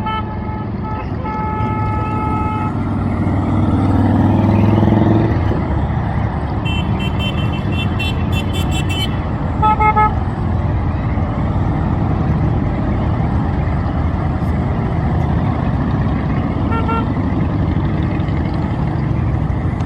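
Steady rumble of motorcycle engines in a parade, with one growing louder over a few seconds as it passes. Horns toot several times: a held horn near the start, a rapid run of higher beeps partway through, then short toots.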